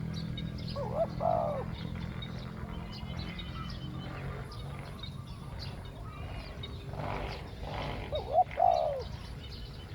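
Spotted dove cooing: a short phrase of arched coo notes about a second in and another near the end, with small birds chirping faintly between.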